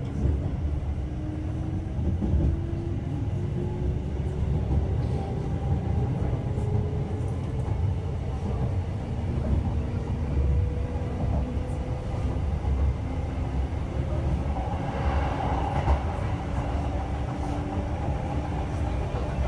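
Kintetsu local electric train running, with a steady low rumble from wheels on rail. Over it, the motor whine glides up in pitch as the train gathers speed.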